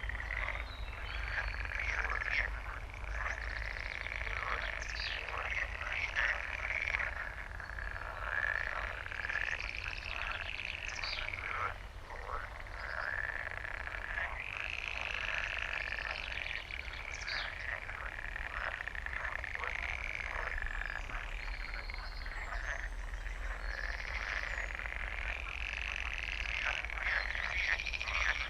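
A dense chorus of croaking frogs, many calls overlapping without pause, over a steady low hum.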